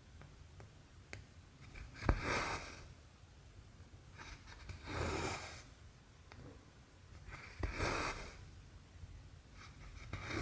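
Cotton embroidery thread pulled through cross-stitch fabric by hand, a soft swishing rasp four times at about two-and-a-half-second intervals, with faint clicks of the needle between pulls.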